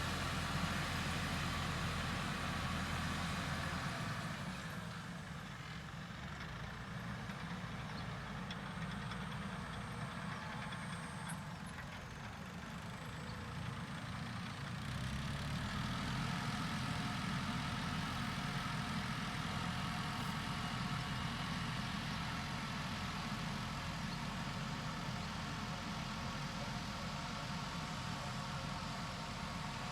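Tractor engine running steadily while sowing grain. It fades somewhat a few seconds in and comes back louder about halfway through.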